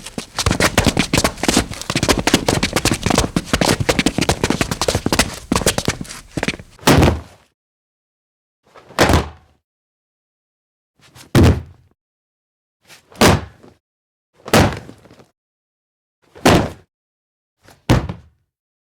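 Fireworks sound effects: a dense, rapid crackle of many bursts for about six seconds, then seven separate booms, each one and a half to two seconds after the last.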